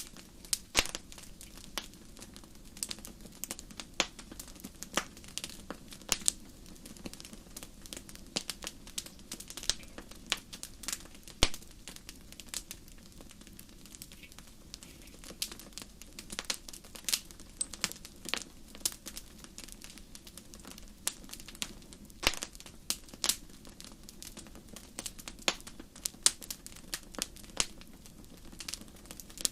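Wood fire burning in a fireplace, with frequent sharp, irregular crackles and pops over a low, steady hiss of flame.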